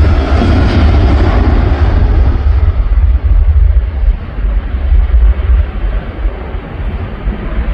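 Jet airliner's engines at takeoff power as the aircraft climbs away, a deep rumble whose higher hiss fades first. The sound grows quieter after about five seconds.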